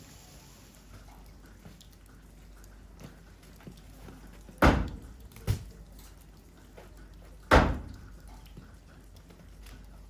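Three loud thumps: two close together about halfway through, the second weaker, and a third about two seconds later, each ringing on briefly.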